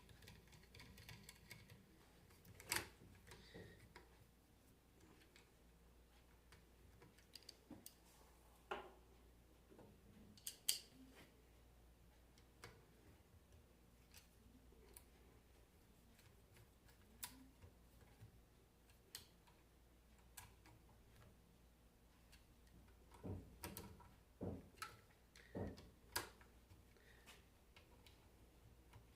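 Mostly quiet, with scattered small clicks and knocks of hand tools and metal parts being handled during alternator reassembly, and a short run of knocks near the end.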